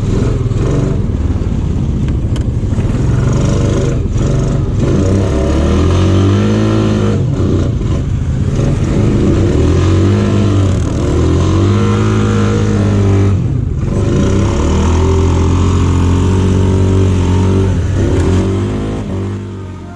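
Off-road vehicle engine revving, its pitch rising and falling several times as the throttle is opened and eased off while riding.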